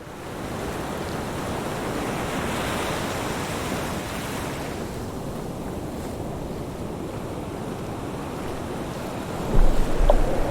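Ocean surf: a wave's hiss swells and then eases off as the water washes back. Near the end a much louder deep rumble with crackling sets in.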